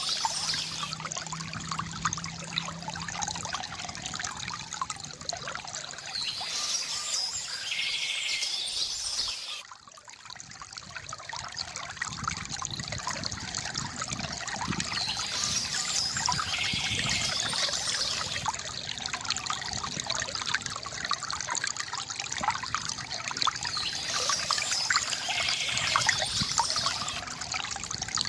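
Water trickling and splashing steadily from a bamboo fountain, briefly fading about ten seconds in before returning. Birds chirp at intervals over the water.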